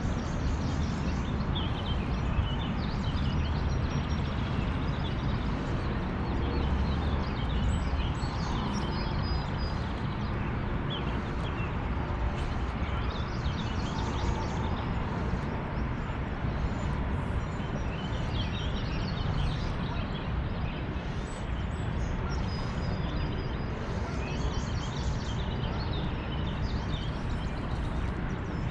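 Songbirds chirping and calling, with many short calls and a few brief whistles, over a steady rushing outdoor noise.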